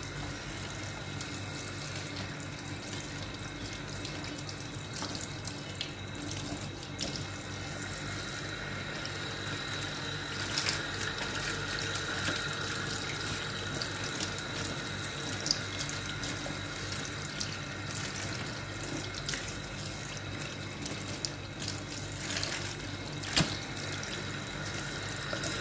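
Kitchen tap running steadily into a sink while raw chicken is rinsed under it, the flow broken by water splashing off the meat, with a few light knocks.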